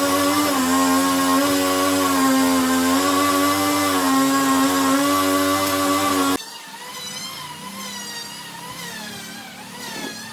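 A woodworking power tool's electric motor running loud at a steady pitch, then an abrupt cut about six seconds in to a quieter machine sound whose pitch wavers up and down.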